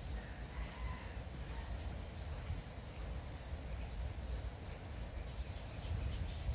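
Light rain falling steadily, with a few faint short bird chirps about a second in and a constant low rumble underneath.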